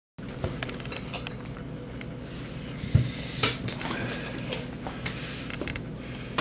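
A spoon clinking and scraping against a cereal bowl in a run of irregular small knocks and clinks, the loudest about three seconds in.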